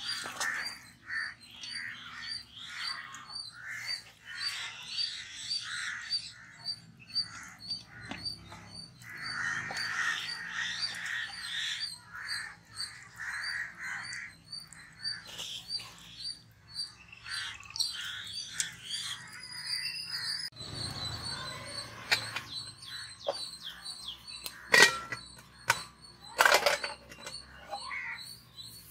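Birds calling: crows cawing and a high chirp repeating about twice a second throughout, with a few sharp knocks near the end.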